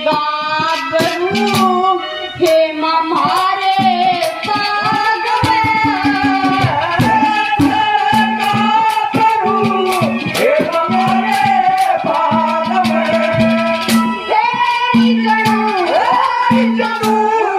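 A child singing a Haryanvi ragni, held notes with a wavering ornament, over live accompaniment of a drum and rattling percussion struck in a quick, steady rhythm.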